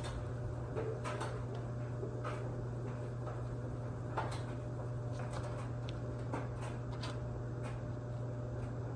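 Hand wet-sanding of a plastic headlight lens with 1,500-grit sandpaper: faint rubbing strokes and occasional small taps over a steady low hum.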